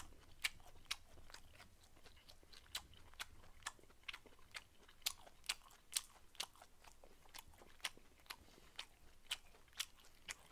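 Close-miked chewing of grilled pork jowl (hangjeongsal): faint, irregular wet mouth clicks and smacks, a few a second.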